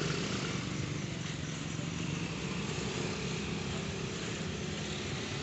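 Road traffic: a motor vehicle engine running steadily under a constant wash of street noise.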